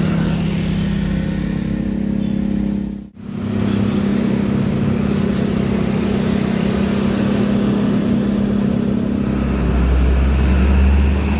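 Diesel truck engines running on a road, a steady engine drone. The sound drops out abruptly for an instant about three seconds in, like an edit cut, and a deeper, louder engine drone comes in near the end.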